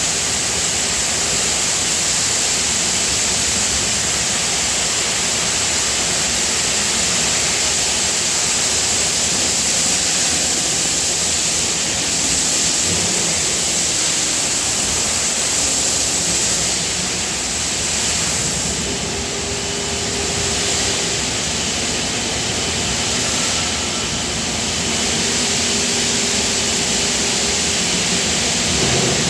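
Steady loud hiss and hum of machinery in a die casting plant, with faint tones coming and going in the second half.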